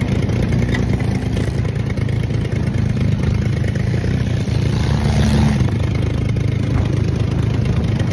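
A motor vehicle's engine running steadily, a continuous low drone.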